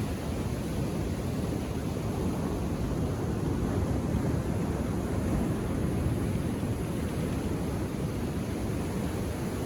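Surf of a calm sea: a steady low rush of waves washing in, swelling slightly in the middle.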